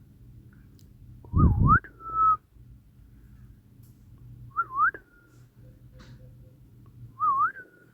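Whistling in three short phrases, a few seconds apart. Each is a wavy dip and rise in pitch that settles into a short held note. A dull low thump comes with the first phrase.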